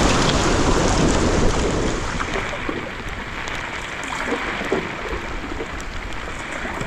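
Wind rumbling on the microphone over a steady rush of water, easing after about two seconds, with scattered small ticks.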